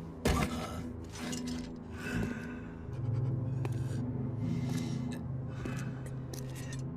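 Anime soundtrack: tense background music with a sharp hit shortly after the start and a steady low drone coming in about three seconds in.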